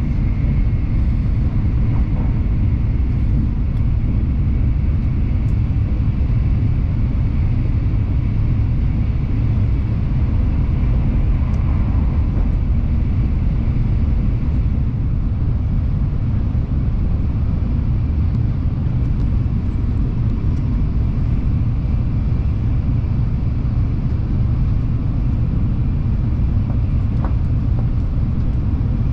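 N700S Shinkansen running at high speed, heard from inside the passenger car as a steady low rumble.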